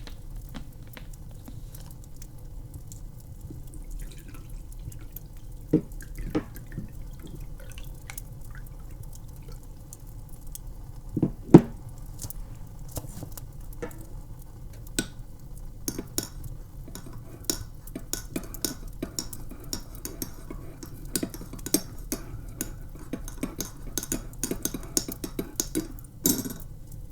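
Hot chocolate being made: a spoon and a mug clinking and knocking, with a louder knock about halfway and quick, repeated clinks of stirring through the second half, over a low steady hum.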